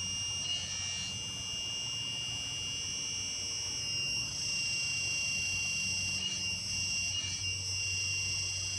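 A steady, high-pitched electronic tone from a battery-powered device, called really loud; it stops only once its battery is taken out.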